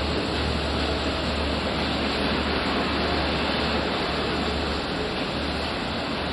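Long Island Rail Road diesel train at the platform: a steady low engine rumble under a loud, even hiss.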